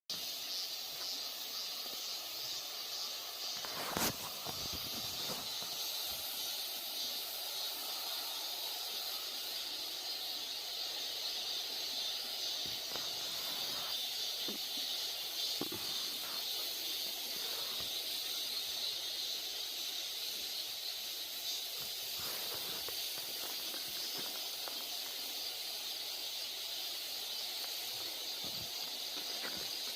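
Steady high hiss of outdoor ambience, with a single sharp click about four seconds in.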